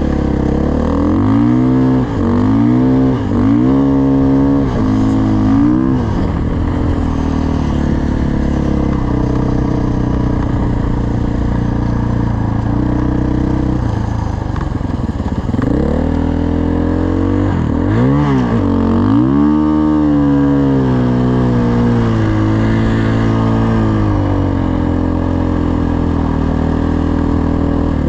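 Dirt bike engine under way, revving up and dropping back several times as the rider shifts gears in the first few seconds and again past the middle, and holding a steady pitch while cruising in between.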